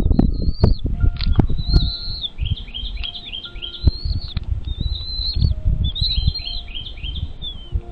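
Birds calling in quick runs of short, high, down-slurred chirps, over low thumps and rustling that are heaviest in the first two seconds.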